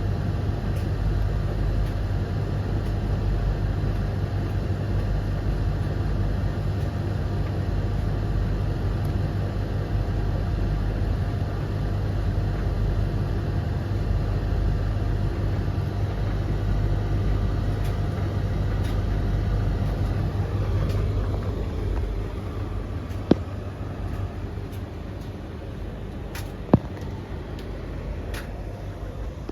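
Tumble dryers (Blomberg LTK310030W, Russell Hobbs RH3VTD800 and Hoover HLEC8TRGR-80) running together mid-cycle: a steady drum rumble and motor hum. It drops somewhat in level about two-thirds of the way through, and two sharp clicks come near the end.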